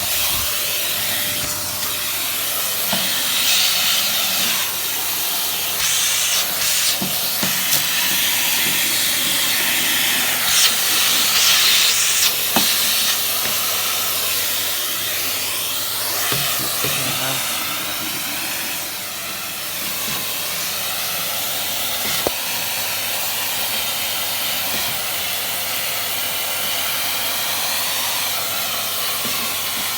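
Dyson CY28 cylinder vacuum cleaner running steadily with a loud airy hiss through its crevice tool, the hiss rising and falling as the nozzle is moved over the floor. A few sharp clicks of broken ornament glass are sucked up the tube.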